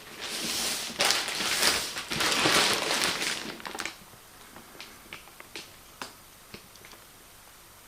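Packaging being rustled and handled for a few seconds, then light clicks and taps as the parcel is handled.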